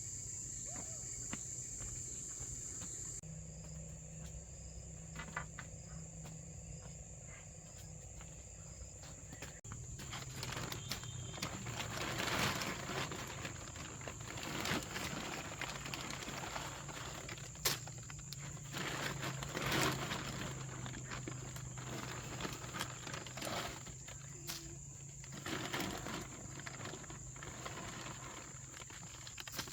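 Steady high-pitched drone of insects such as crickets, with irregular rustling and knocking from about ten seconds in.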